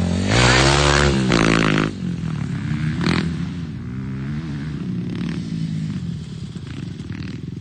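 Dirt bike engines revving up and down on a motocross track. One bike is loudest in the first two seconds, as if passing close, then the engine note drops back and keeps rising and falling as the bikes ride on.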